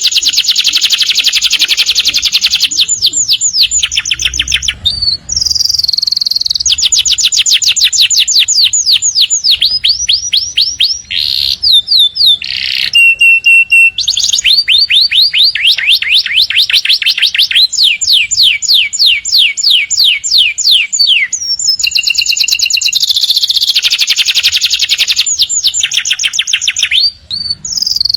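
Domestic canary singing a long, nearly continuous song of rapid trills and rolling runs of repeated notes, with only a few brief pauses.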